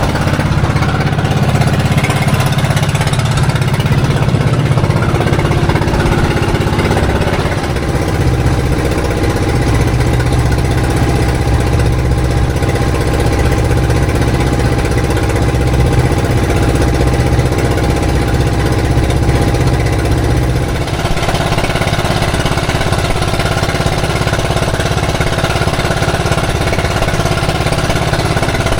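A small fishing boat's engine running steadily with a rapid knocking chug. Its note shifts about eight seconds in and again about twenty seconds in.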